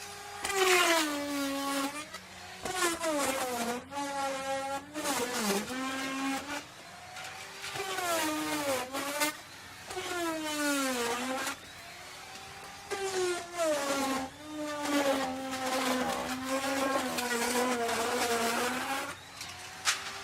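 Electric wood router cutting wood: its motor whine drops in pitch under the load of the cut and climbs back, over and over.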